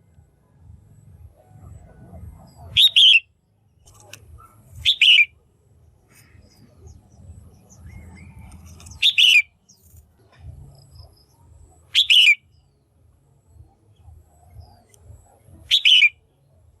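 Female red-whiskered bulbul giving five short, sharp calls a few seconds apart, each a quick downward sweep. A faint low hum runs underneath.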